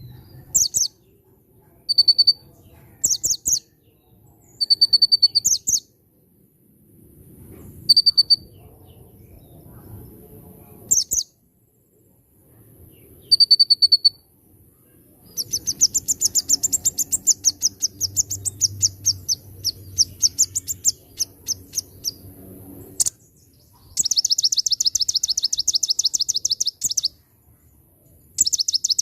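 A sunbird (konin, kolibri ninja) singing: short high chirps repeated every second or two, then two long, fast, twittering trills, one about fifteen seconds in and one near the end.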